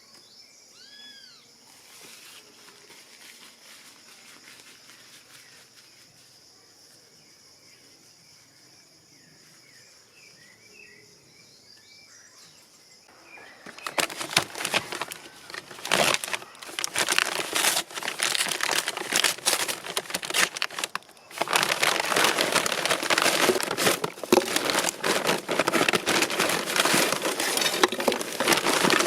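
A steady high insect chorus with a few short bird calls, then about halfway through a loud crackling rustle of many close clicks takes over and covers everything, with a brief pause partway.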